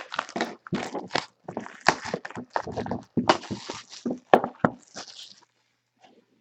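A sealed hobby box of trading cards being opened by hand: a quick run of crinkles, scrapes and taps of plastic wrap and cardboard that stops near the end.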